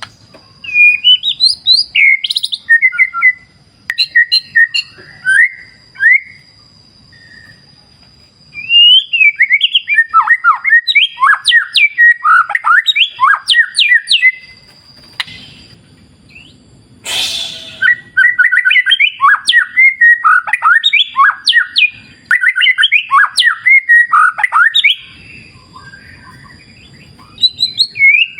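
White-rumped shama (murai batu) singing in bouts of quick, varied whistled phrases that swoop up and down, with short pauses between bouts. A single sharp click about seventeen seconds in, and a faint steady high tone behind the song.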